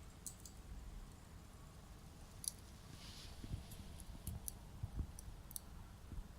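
Wood campfire crackling: irregular sharp pops and snaps scattered through, with a brief soft hiss about three seconds in.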